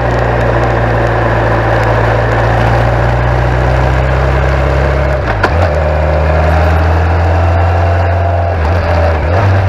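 1991 BMW K1100LT motorcycle's inline four-cylinder engine running, a steady low hum under loud rushing noise. A sharp click comes about five and a half seconds in, after which the engine note shifts.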